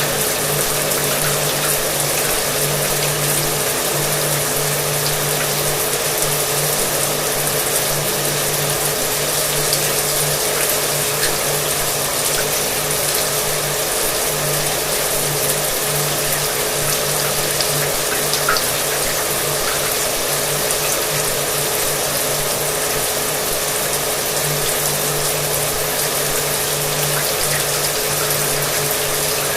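Shower water spraying steadily with a hair dryer running underneath: an even hiss over a steady motor hum.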